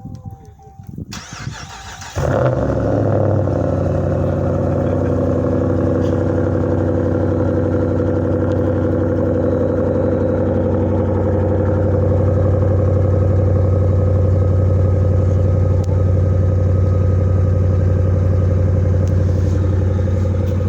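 Dodge Ram pickup engine cold-started through a muffler-delete exhaust with Dynomax Race Bullet resonators. The starter cranks for about a second, the engine catches about two seconds in, and it then settles into a steady idle.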